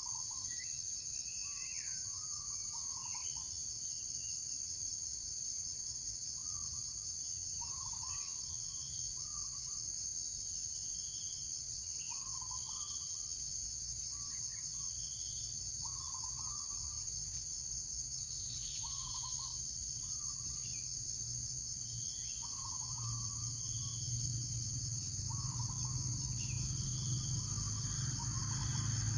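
A steady high-pitched drone of insects, with short bird calls repeating every second or two. A low rumble builds over the last few seconds.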